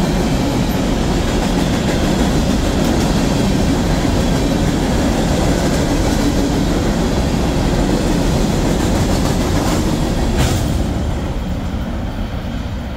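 Freight train of covered hopper cars rolling past at close range, with steady wheel-on-rail noise and a brief sharp noise about ten seconds in. The sound drops off near the end as the last car passes and moves away.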